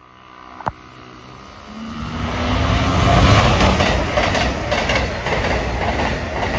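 Amtrak passenger train passing close by at speed: a rush of wheel-on-rail noise that builds over the first two seconds and stays loud, with quick clicks of the wheels over the rail joints. A single sharp click sounds just before the first second.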